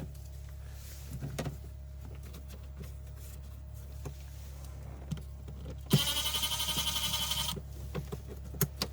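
A small electric motor whirs steadily for about a second and a half, about six seconds in. Scattered light clicks and knocks of tools on the car come before and after it.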